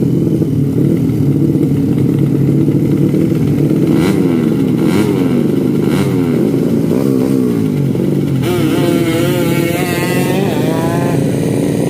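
Racing motorcycle engines revving, their pitches rising and falling as they run and overlapping. There are a few sharp cracks about four to six seconds in, and a higher wavering note over the last few seconds.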